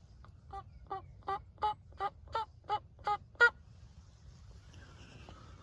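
A series of about nine turkey yelps, roughly three a second, growing louder to a loud final note, in the rhythm of a hen yelp sequence.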